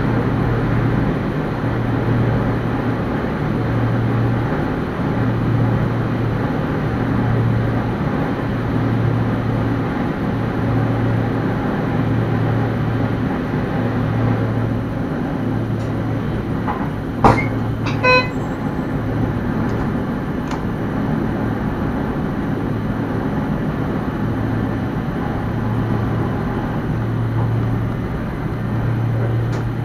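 Steady running noise of a Sprinter electric train heard from the driver's cab, with a low hum that swells and fades about once a second. A little past halfway, a sharp click and then a short high tone.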